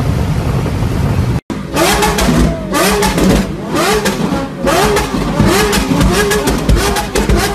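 Loud car exhaust with the engine revved in repeated quick blips, each one rising and falling in pitch, about one a second, with sharp bangs among them. A steady engine sound before it cuts off abruptly about a second and a half in.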